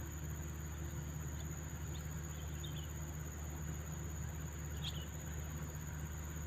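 Steady high-pitched insect trilling over a low steady rumble, with a few brief faint bird chirps, the clearest about five seconds in.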